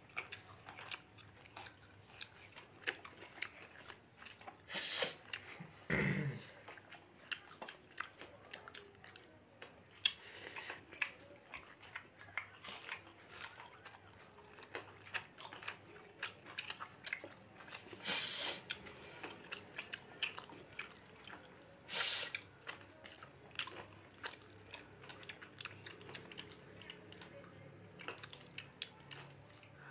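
A person chewing a mouthful of fish curry and rice close to the microphone, with many small mouth clicks throughout. A few louder noisy sounds come about five, six, eighteen and twenty-two seconds in.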